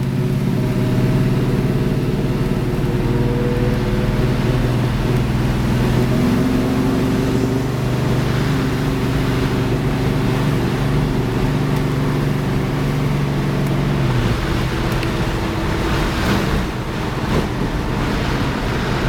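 1962 Chevrolet Nova II's 383 V8 running steadily as the car is driven gently, the engine still cold. About fourteen seconds in, its steady note falls away into a rougher, noisier sound.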